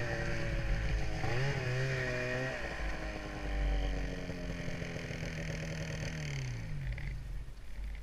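Snowmobile engine running under way. Its pitch rises and dips twice early on, then runs steady. About six seconds in the engine note falls away as the throttle eases off.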